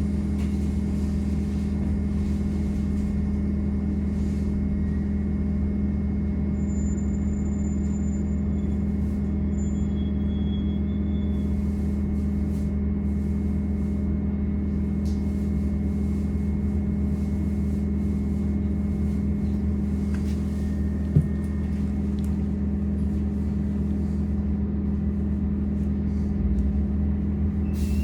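Steady electrical hum and low rumble inside a MAZ-203T70 trolleybus, its pitch holding level. There is a single short click about three quarters through, and near the end the low rumble starts to swell.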